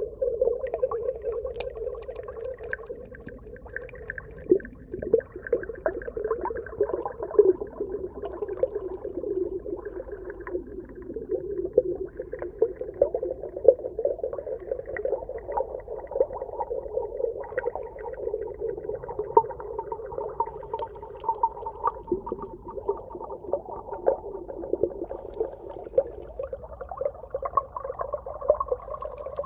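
Underwater soundscape: a steady, wavering hum with many small clicks and crackles through it. A higher tone joins in about two-thirds of the way through.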